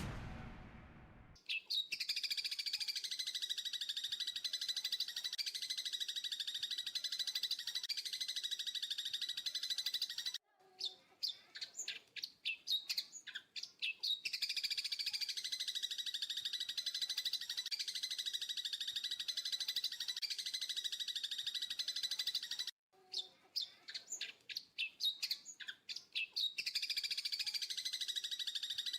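Birds chirping in a dense, continuous high chatter that repeats in a regular pattern. It breaks off abruptly twice, each time giving way to a few seconds of separate single chirps before the dense chatter starts again.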